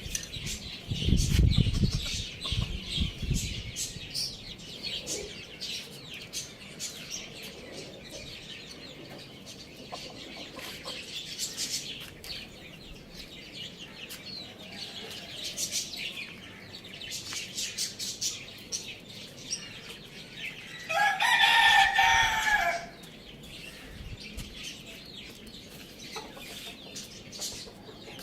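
Chickens clucking with steady high chirping, and a burst of low thumps a second or so in. Near the end a rooster crows once, loud, for about two seconds.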